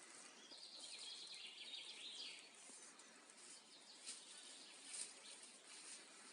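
Quiet forest ambience: a bird sings a short twittering phrase about half a second in, lasting around two seconds, over faint crackles and ticks.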